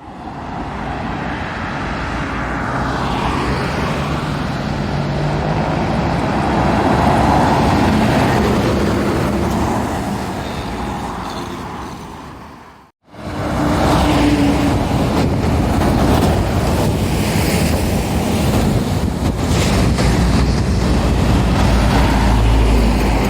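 Road traffic with heavy lorries driving past. Engines and tyres swell and fade as one vehicle goes by. After a sudden cut, a second steady stretch of passing traffic follows, with a deep rumble building near the end.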